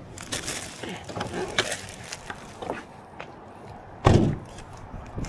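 A few light clicks and knocks, then one loud thump about four seconds in, as parts of the car are handled to get at the engine air filter.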